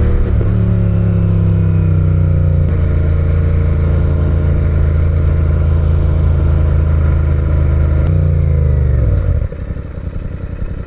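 Motorcycle engine running at a steady pitch under way. About eight seconds in the revs drop as the throttle closes, and the engine settles to a quieter, lower beat.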